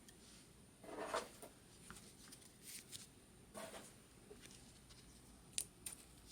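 Faint rustling and a few soft clicks from trading cards being handled, with quiet room tone between.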